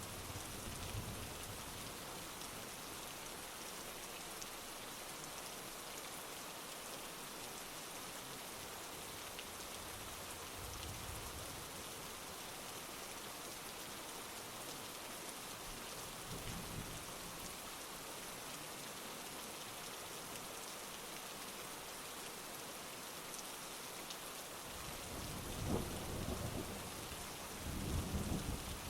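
Heavy rain falling steadily, with faint low thunder rumbles a few times and a longer, louder rumble of thunder building over the last few seconds.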